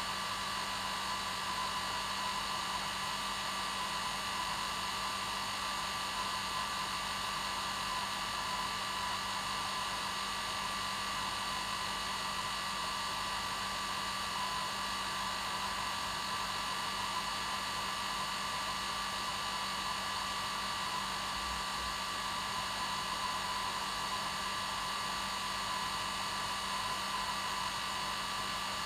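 Hair dryer running steadily as continuous white noise, a constant rushing hiss with a steady whine, unchanging throughout.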